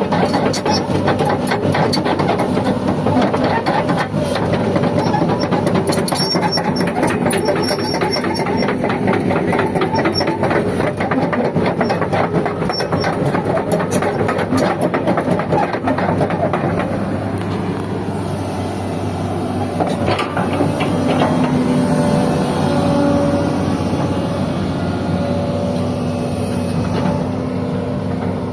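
Sany 210 crawler excavator running: a steady diesel drone with a rapid metallic clatter. About two-thirds of the way through, the clatter thins out and leaves a steadier hum.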